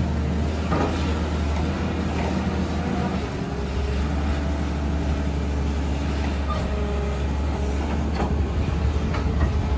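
Hydraulic excavator's diesel engine running under load with a steady low drone that dips briefly about a third of the way in, with a few short metallic clanks.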